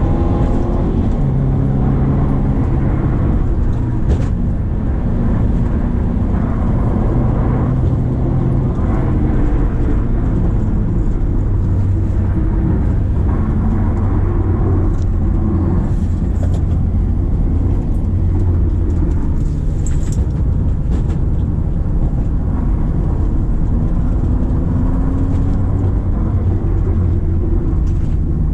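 Subaru XV's 2.0-litre boxer four-cylinder engine running under load as the car climbs a steep concrete road. The engine note holds fairly steady, shifting pitch a couple of times, over constant low road rumble.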